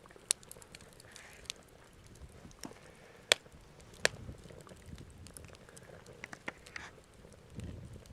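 Wood fire crackling, with sharp pops scattered irregularly through it, the loudest two about three and four seconds in.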